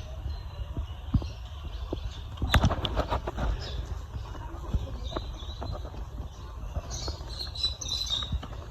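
Birds in an aviary fluttering, with scattered light knocks and rustles and a cluster of them a few seconds in, and a run of high chirps near the end.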